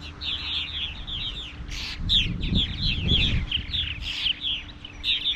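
A flock of purple martins calling around their colony: a dense, continuous chatter of short overlapping chirps from many birds at once, as adults and newly fledging young fly about on fledging day.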